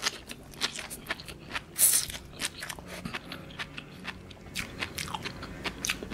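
Close-miked chewing of a mouthful of raw sea grapes (latok), the little beads popping and crunching in many quick clicks, with one louder crunch about two seconds in.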